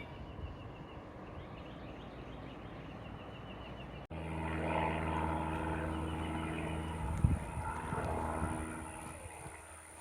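A low rumble, then after a sudden cut about four seconds in, a steady engine drone with a thump about three seconds later; the drone fades near the end.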